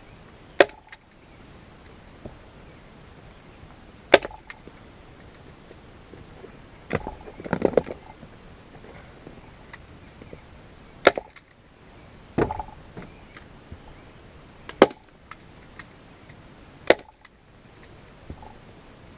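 Staple gun firing staples through a leather seat cover into an ATV seat's plastic base: five sharp single snaps a few seconds apart, with a rustle of the leather being pulled about seven to eight seconds in. An insect chirps steadily in the background.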